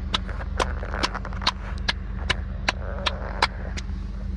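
Steady low drone of a car running, heard from inside, with sharp clicks repeating at a fairly even pace of about two to three a second.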